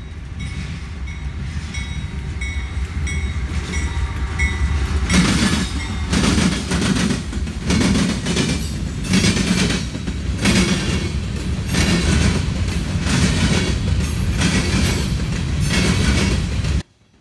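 Freight train rolling past with a steady rumble, then from about five seconds in the wheels of the freight cars clacking over rail joints in an even rhythm. A high ding repeats about twice a second in the first few seconds. The sound cuts off abruptly near the end.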